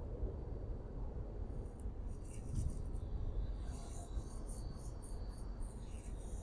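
Faint high-pitched chirping in quick pulses, busier in the second half, over a steady low rumble.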